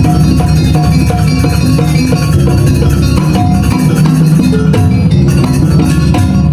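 Loud gamelan-style jaranan music: drums and tuned metal percussion playing a dense, steady rhythm as dance accompaniment.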